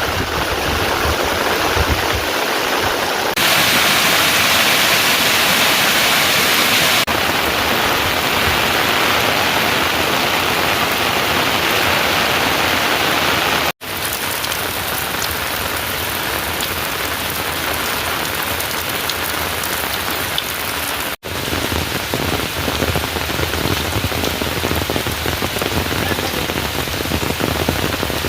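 Heavy rain falling steadily, a dense, even hiss. It cuts out for an instant twice, about 14 and 21 seconds in.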